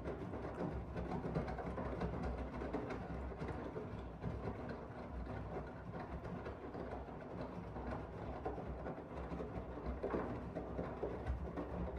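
Miele W1 front-loading washing machine running a wash, its drum turning with a steady low rumble and irregular knocks and thuds of the laundry tumbling.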